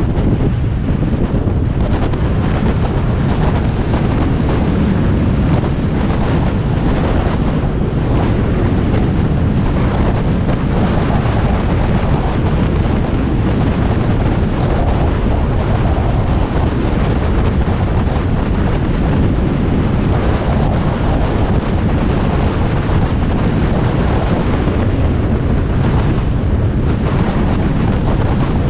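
Steady, loud wind buffeting the microphone of a Harley-Davidson Iron 1200 motorcycle under way, with the bike's 1200 cc V-twin running underneath.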